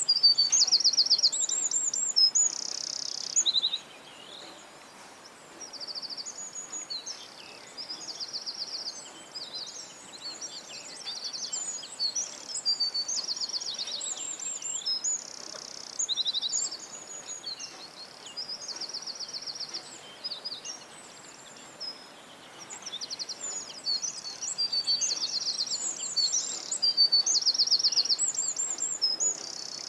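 Songbirds singing: a continuous stream of high, rapid trills and chirps in overlapping phrases. It is loudest in the first few seconds and again near the end, over a faint steady background hiss.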